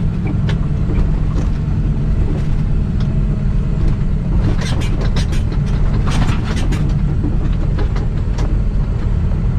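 Semi truck's diesel engine running steadily with a low hum. A cluster of sharp clicks and ticks comes about halfway through.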